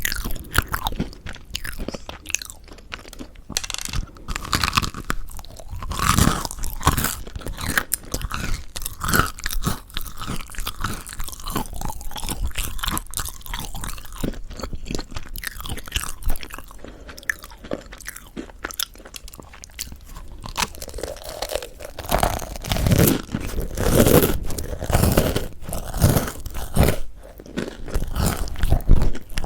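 Close-miked bites and chewing of crispy mocha bread with a crunchy crust, dense crackling crunches, with a run of louder bites about three-quarters of the way through.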